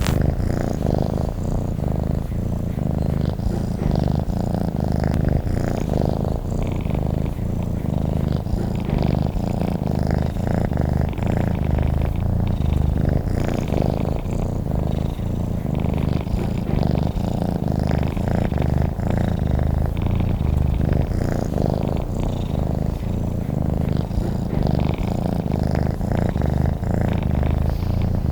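Domestic cat purring steadily without a break, a low, finely pulsing rumble.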